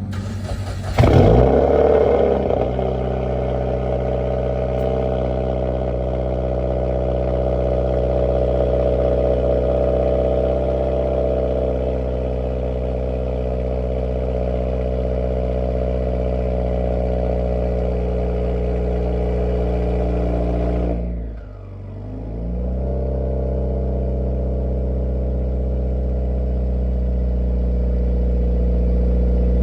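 Turbocharged Subaru WRX flat-four running on E85, cold-started: it fires about a second in, flares up, then settles into a steady fast idle. About 21 seconds in the revs sag briefly and then recover to the same idle.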